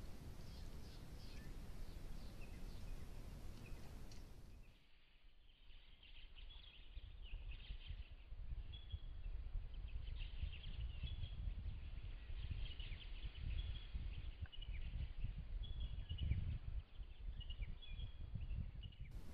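Small birds chirping and calling repeatedly over a steady low rumble, as picked up by a trail camera's microphone in the bush. About five seconds in, the sound turns duller, and the chirps become more frequent and distinct.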